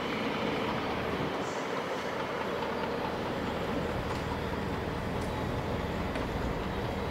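Train running through the station at a steady level, a constant noise with a low hum underneath.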